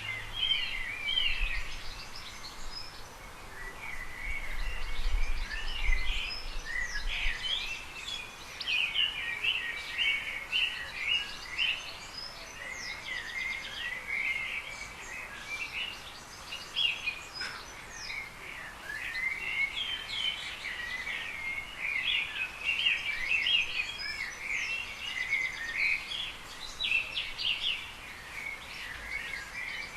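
Several small birds chirping at once: a continuous, busy chatter of short, high calls.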